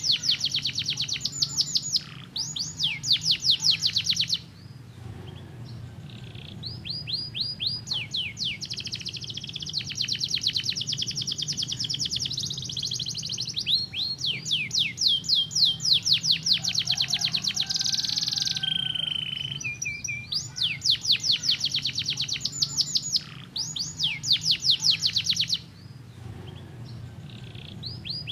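Canary singing: fast trills of rapidly repeated falling notes, in phrases of a few seconds with short breaks between, over a faint steady low hum.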